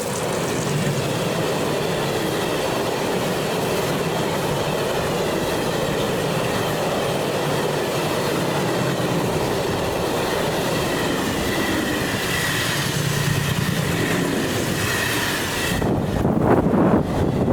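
A train running past on the rails with a steady rumbling noise, a thin high whine toward the end, then wind buffeting the microphone in the last couple of seconds.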